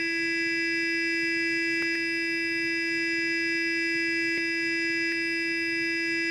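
Sonic electric toothbrush running, a steady high buzz that holds one pitch throughout, with a faint tick now and then.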